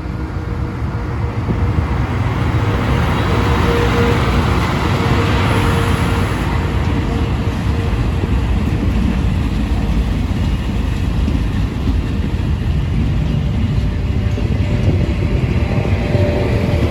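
Electric train passing through a station: a loud, steady rush of wheel and rail noise with a deep rumble, building over the first couple of seconds and then holding, with a faint steady hum.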